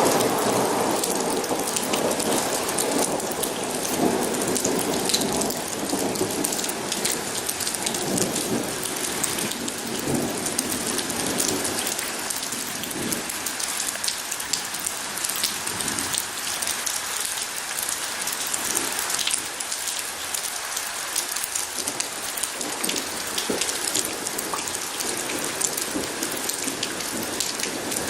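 Steady heavy rain with dense pattering drops, and rolling thunder rumbling under it, loudest at the start and dying away in weaker rolls.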